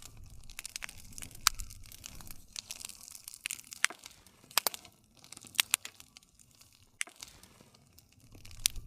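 Campfire burning, wood crackling with sharp, irregular pops over a soft hiss and low rumble of flame.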